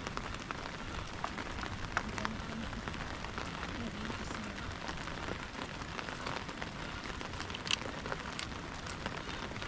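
Steady rain falling, with scattered sharper taps of single drops hitting nearby surfaces.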